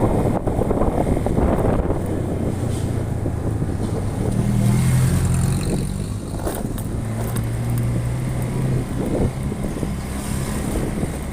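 A motor vehicle on the move: a steady low engine hum over road noise.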